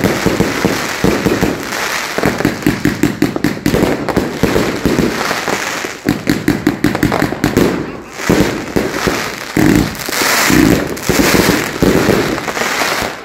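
New Year's fireworks and firecrackers going off in rapid volleys, many sharp bangs a second, with stretches of dense crackling a little past the middle.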